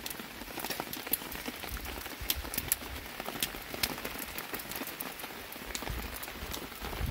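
Rain falling steadily, with many irregular sharp drop hits.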